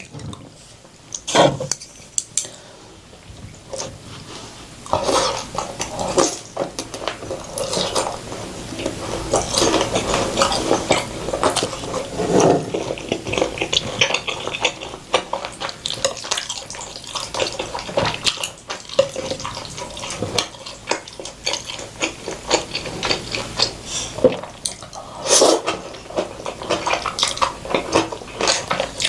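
Close-miked eating sounds of Korean-Chinese food: utensils clicking against bowls and plates, with wet slurping and chewing, as a string of short clicks and smacks.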